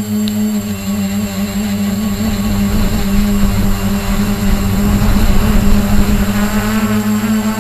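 Radio-controlled model helicopter in flight: a steady motor and rotor hum, with a rush of rotor noise that swells in the middle and eases off again.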